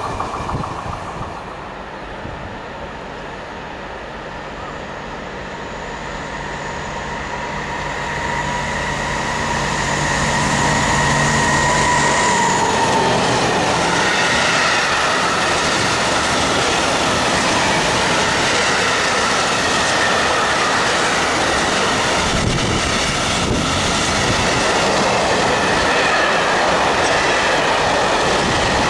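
A Vossloh G1206 diesel-hydraulic locomotive approaches with a rising engine and transmission whine, which drops in pitch as it passes about 12 seconds in. Then a long freight train of tank and hopper wagons rolls by steadily, its wheels clattering, with some high wheel tones.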